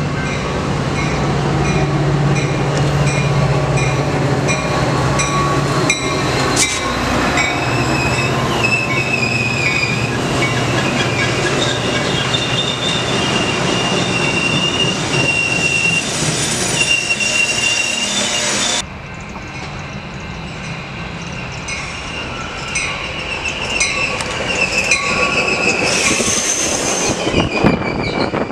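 Train passing close by, its steel wheels squealing against the rails in high, shifting tones over the steady rumble of the cars. The sound cuts off abruptly about two-thirds of the way through and another stretch of train noise with wheel squeal follows.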